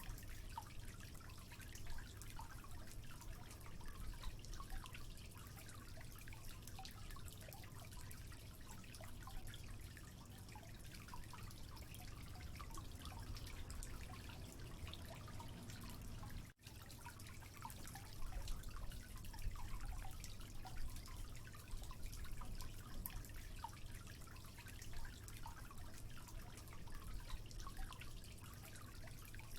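Running water trickling, with many small drips and bubbling splashes, like a small stream flowing over stones. The sound drops out for an instant a little past halfway, like an edit splice in the recording.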